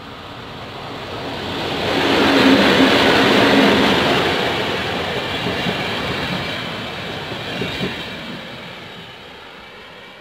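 A train passing by: it swells in, is loudest about two to four seconds in, and fades away near the end.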